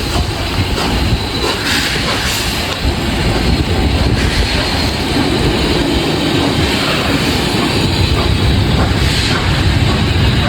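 Heritage excursion train on the move: a loud, steady rumble with rail noise.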